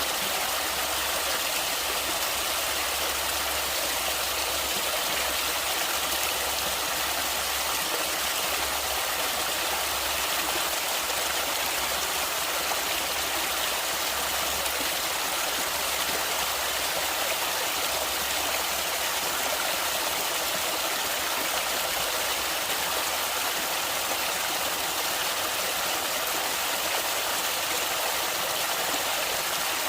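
Stream water flowing and rushing steadily, an even hiss of running water with no breaks.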